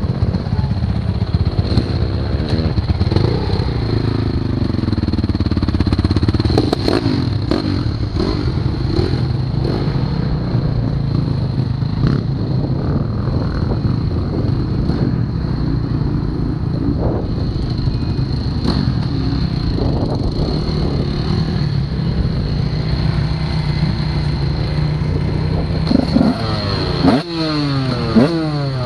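Motocross bike engine running hard on a dirt track, with scattered knocks and clatter, and a quick run of rising revs near the end.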